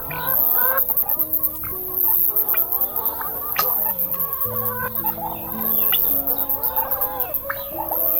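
Chickens clucking, many short calls overlapping, over soft background music with long held notes and a shrill, pulsing high hiss.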